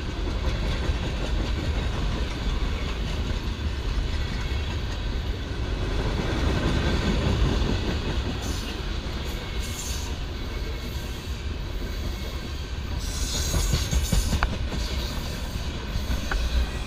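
Freight train's open-top hopper cars rolling past close by: a steady rumble with the wheels clicking over the rail joints. Brief high squeals from the wheels come about halfway through and again a few seconds later.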